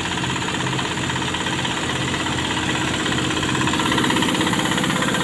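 Diesel engine of a heavy-haul truck moving a power transformer, running steadily under load with an even pulsing beat, a little louder about four seconds in.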